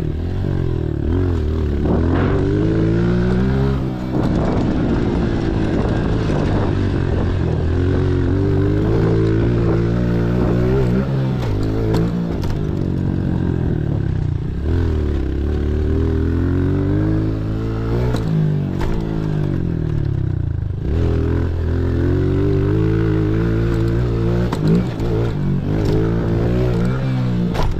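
Pit bike engine revving hard and easing off over and over as it is ridden around a dirt track. The pitch climbs and falls every few seconds, with short throttle-offs between runs.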